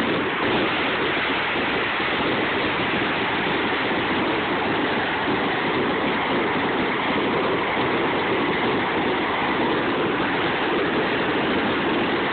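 Aerial fireworks going off in a dense barrage, heard as a continuous rushing crackle with no single boom standing out.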